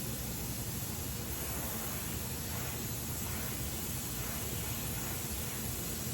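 Gas welding torch flame hissing steadily while flame welding aluminium.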